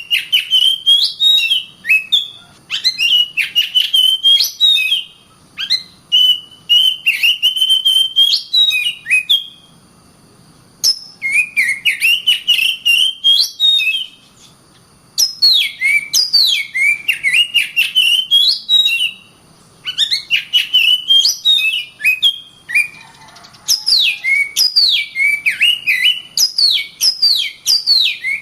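Oriental magpie-robin singing in long phrases of quick, loud whistled notes mixed with sharp clicking notes, broken by short pauses every few seconds.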